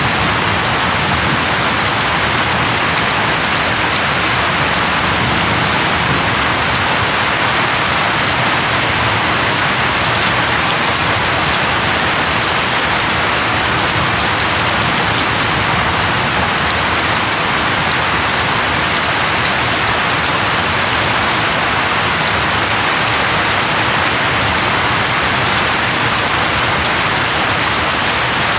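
Steady rain falling on a surface, a constant even hiss of raindrops.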